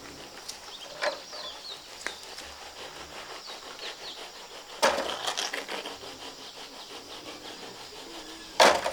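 Wooden knocks and scrapes as hard objects are handled: a few separate knocks, a louder one about halfway with a short scrape after it, and the loudest near the end.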